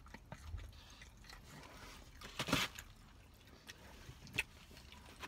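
A person chewing a mouthful of breaded fried chicken tender with soft mouth clicks, and one louder scratchy burst about halfway through.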